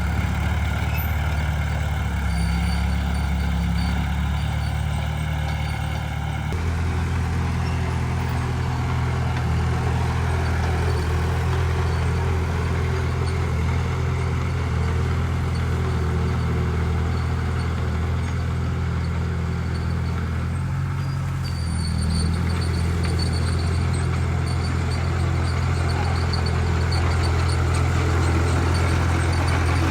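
Heavy diesel engine of earthmoving machinery running steadily at a constant pitch. The sound shifts abruptly twice, about six and twenty-one seconds in.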